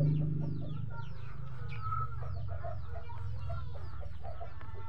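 Background bird calls: many short, quick chirps and scattered lower calls over a low steady hum.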